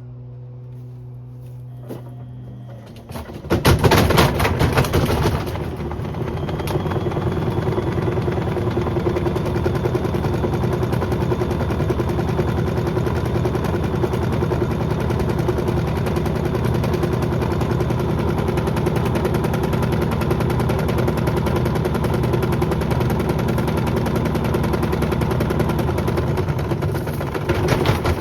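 Beko WM74135 washing machine's drum turning with a 5 litre bottle inside: a low motor hum for about three seconds, then the bottle starts banging around the drum in a loud rapid clatter, loudest for the first couple of seconds. It settles into a steady rapid rattle over the motor hum, growing louder again near the end.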